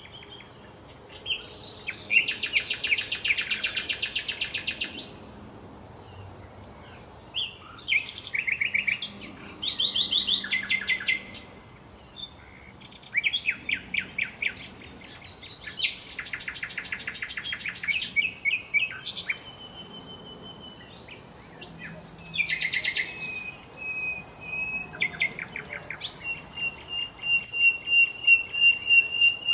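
Songbirds singing: a series of separate phrases of quick trills and chirps with short pauses between them, ending in a long, even, high trill over the last few seconds.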